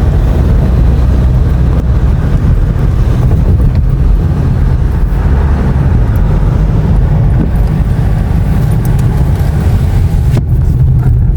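Steady low rumble of a car driving along a road, heard from inside the moving vehicle.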